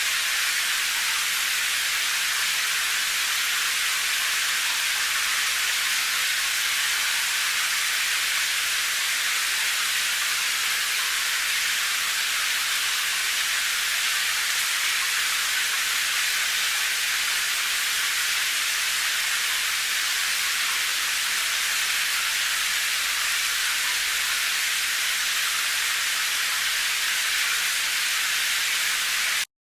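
Steady rain, an even hiss without distinct drops, cutting out for a split second near the end.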